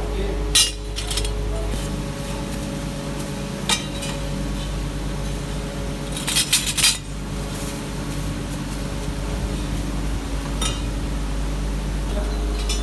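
Metal parts clinking against each other now and then, with a quick cluster of clinks about six to seven seconds in, over a steady machine hum.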